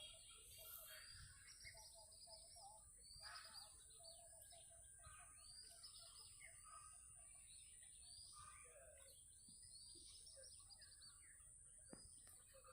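Several small birds chirping and calling, faintly, in short overlapping phrases and quick runs of repeated notes, over a steady high hiss.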